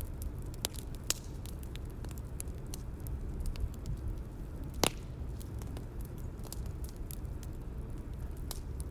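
Bonfire ambience: a steady low rumble of burning with irregular crackles and pops from the wood, one sharper pop about five seconds in.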